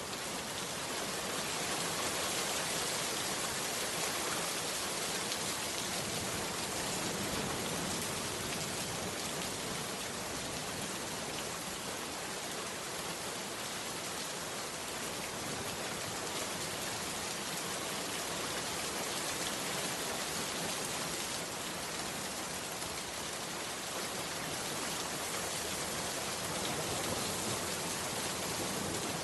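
Heavy rain falling steadily on a bamboo hut, a dense even hiss of drops with no letup.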